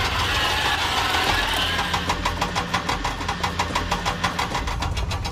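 Truck engine running with a steady drone. About two seconds in it settles into a rapid, even chugging.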